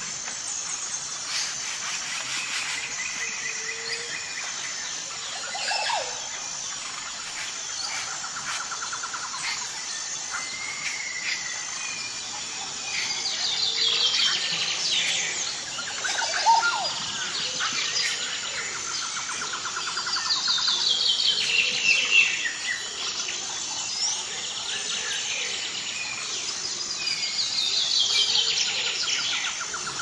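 Several birds singing and calling. A song of rapid notes falling in pitch comes three times, about seven seconds apart, over a steady high pulsing note.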